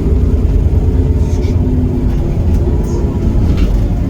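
Iveco Cursor 8 six-cylinder diesel engine of a Heuliez GX327 city bus running steadily, a deep low rumble with a faint steady engine tone above it.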